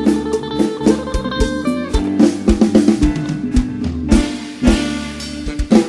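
Live Isan luk thung band playing an instrumental passage without vocals: drum kit keeping a steady beat under guitar and other pitched instruments.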